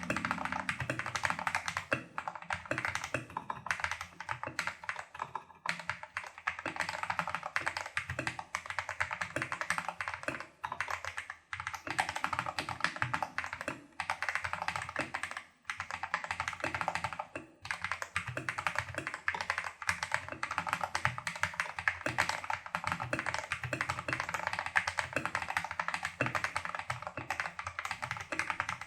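Fast, continuous typing on a Tester68 custom mechanical keyboard with lubed, modded Holy Panda-clone tactile switches and XDA-profile keycaps, the keystrokes clacking densely with a few brief pauses.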